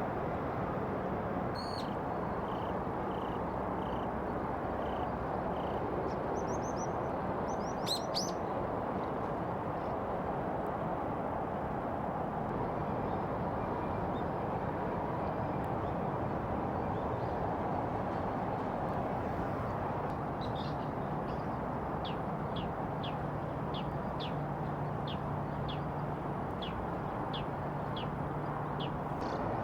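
Wild birds calling over a steady low background rush. A few scattered high calls and short note series come in the first eight seconds, one of them louder. From about two-thirds of the way through, a bird gives a long run of quick, sharp down-slurred notes, about two a second.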